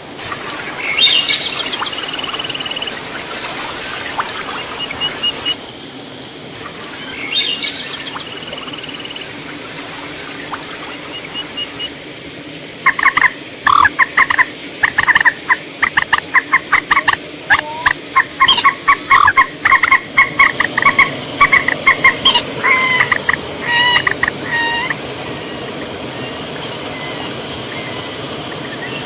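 Forest birds calling: two brief sweeping chirps in the first eight seconds, then a long run of rapid, repeated call notes from about 13 to 25 seconds in. A steady hiss of falling water from a small waterfall comes up about twenty seconds in and runs under the calls.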